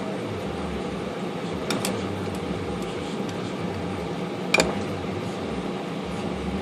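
Steady mechanical hum with two short clicks of small metal parts being handled while gears are fitted in an IBM Selectric typewriter, a light one about two seconds in and a sharper one about four and a half seconds in.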